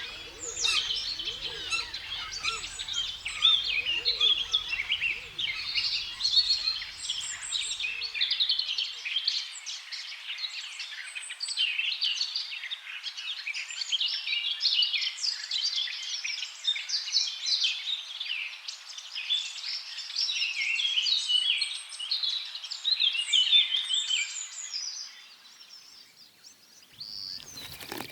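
A dense chorus of many small birds chirping and trilling over one another. A faint low hum lies under the first few seconds, and the chorus thins out near the end.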